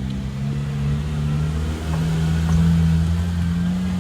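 A motor engine running steadily with a low hum, its pitch drifting slightly.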